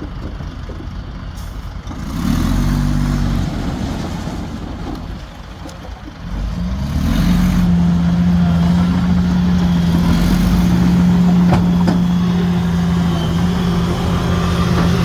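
Heavy diesel engines of earthmoving machinery running. About seven seconds in, one engine revs up and holds a steady, louder drone.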